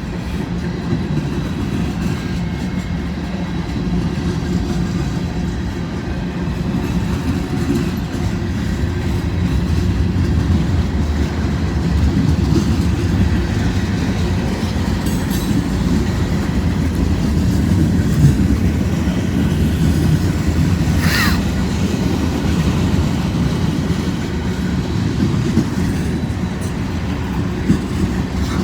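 Freight cars of a long mixed manifest train rolling past, a steady heavy rumble with wheel clatter over the rail joints. About two-thirds of the way through, a wheel gives one brief high-pitched squeal.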